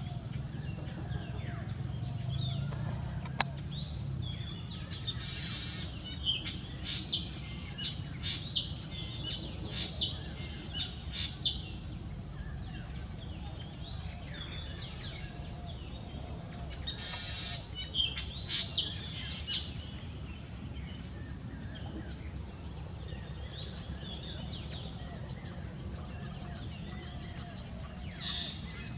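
Wild birds calling, with two bouts of loud, quick, high chirps about six seconds in and again around eighteen seconds, each begun by a short buzzy note, over softer calls and a steady low background rumble.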